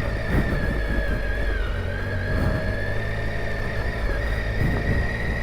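Triumph Tiger 800 XCa's three-cylinder engine running at steady, moderate revs off road, with a low rumble and a steady high whine over it.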